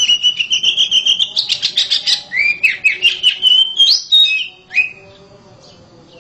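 Oriental magpie-robin (kacer) singing loudly: a fast run of repeated notes breaks into varied slurred whistles and trills, and stops about five seconds in. Faint chirps follow.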